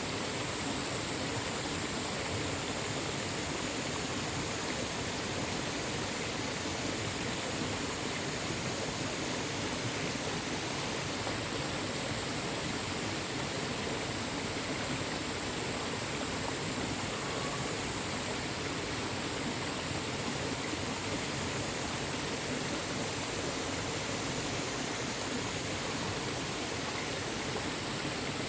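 Mountain valley stream flowing steadily, a continuous rush of water.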